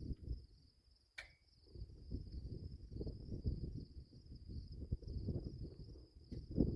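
Insects trilling in one steady high note, over uneven low rumbling noise and a single sharp click about a second in.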